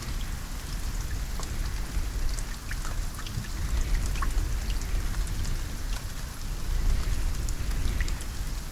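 Steady rain with individual drops tapping sharply and irregularly, over a continuous low rumble.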